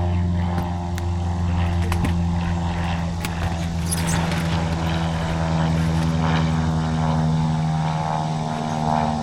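Steady low engine drone of a running vehicle, an even hum with a few faint clicks over it.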